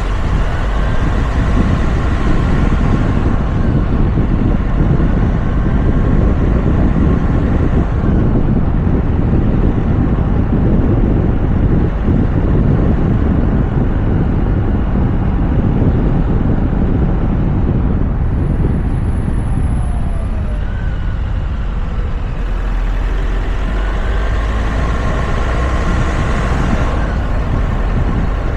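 Steady road and wind noise of a moving Toyota RAV4, heard from a camera mounted on its roof: a constant low rumble of tyres and air rushing past, with faint whining tones that drift up and down in pitch.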